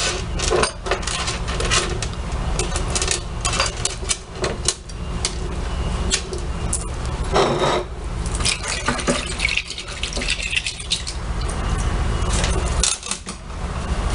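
Small metal screws and tools clinking and clicking as the screws of a Whirlpool washing machine's transmission cover are fitted: a run of irregular sharp clicks over a steady low hum.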